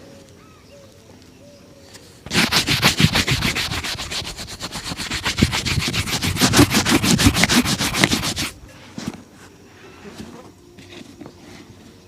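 A shoe being brushed fast back and forth during a shoe shine, several quick strokes a second, starting about two seconds in and stopping about six seconds later.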